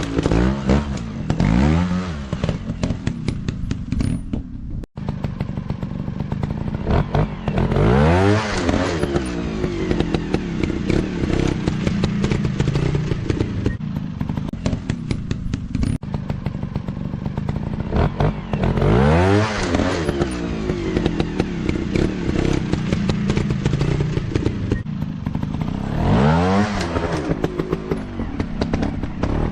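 Dirt bike engines revving up and dropping back several times, with clattering and scraping mixed in.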